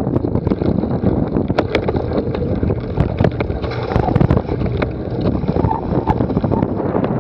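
Wind buffeting the microphone of a camera on a cyclocross bike in motion, with frequent knocks and rattles from the bike over rough ground.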